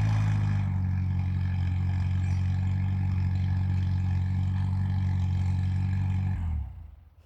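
Allis-Chalmers tractor engine idling steadily, then shut off about six seconds in, its pitch sagging as it dies away within half a second.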